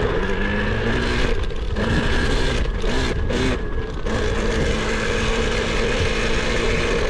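Electric KTM kids' dirt bike running, its motor giving a steady whine over a low rumbling noise.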